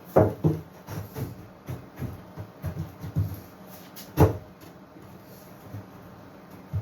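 A series of wooden knocks and thumps as boards are handled and knocked into place: two sharp ones at the start, a run of lighter knocks, the loudest about four seconds in, and one more at the very end.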